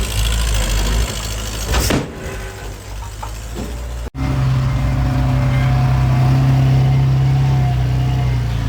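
Heavy diesel engine of earthmoving machinery running, with a single knock about two seconds in. After a sudden break about four seconds in, an engine runs loud and steady at a constant pitch.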